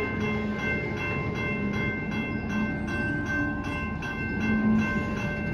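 Welded rail train rolling slowly, a steady low rumble with a steady whine above it.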